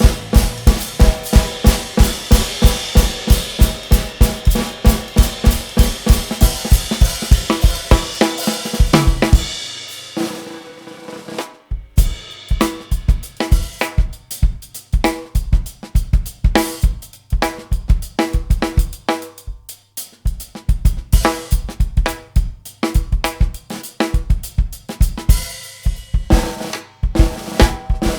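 A live jazz-fusion band playing, with drum kit hits driving it. After a brief drop about ten seconds in, the drum kit carries on mostly alone: snare, bass drum, toms and hi-hat in a drum break.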